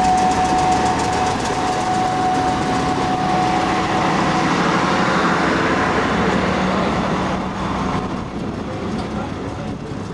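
Slow-moving train of a motor luggage van and a 4-CEP electric multiple unit rolling past, with wheel noise and clicking over the rails. A thin steady whine sounds for the first few seconds and fades out about four seconds in. The overall sound eases off near the end.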